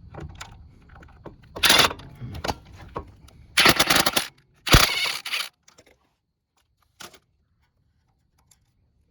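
Power impact tool run in three short bursts, undoing the 10 mm bolts that hold the A/C hoses to the compressor.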